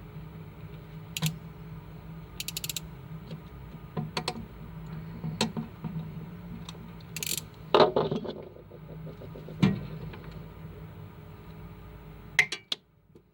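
Scattered clicks and knocks of hand work on small hard parts, with a quick rattle of clicks about two and a half seconds in and a few sharper knocks later, over a steady low hum. The sound drops away just before the end.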